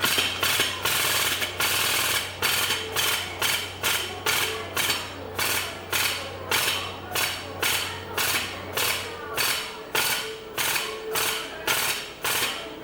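Repeated sharp metal strikes on a dented car body panel during dent-pulling repair, about two a second and each ringing off briefly. A low steady hum underneath stops about nine seconds in.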